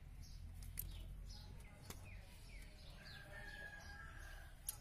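Small birds chirping, many short falling chirps repeated throughout. A few sharp clicks, the loudest near the end, come as hands work a rubber hose loose on a car engine.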